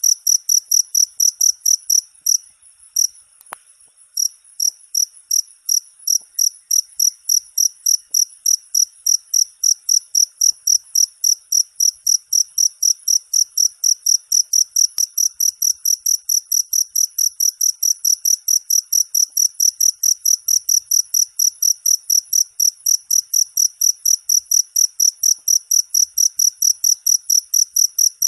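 Cricket chirping in an even, high-pitched train of about three to four chirps a second, with a brief break about three seconds in.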